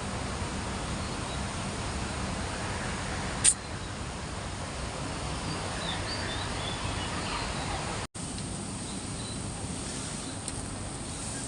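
Outdoor park ambience: a steady wash of background noise with a few faint bird chirps near the middle, a single sharp click about a third of the way in, and a momentary dropout a little after two-thirds of the way through.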